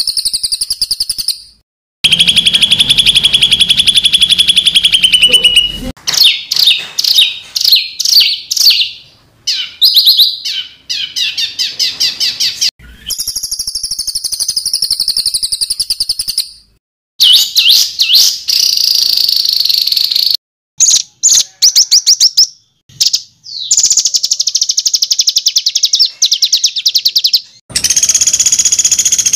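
Songbird song made up of fast trills and rapid runs of harsh, tightly repeated high notes, the 'shots' (tembakan kasar) used to train caged songbirds. The song comes in recorded segments spliced together, each breaking off suddenly, with short silences between them.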